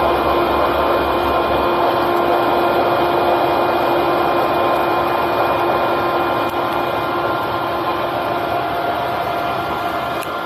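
Electric rice flour grinder running steadily: a continuous machine noise with a few held tones, a little quieter from about six and a half seconds in.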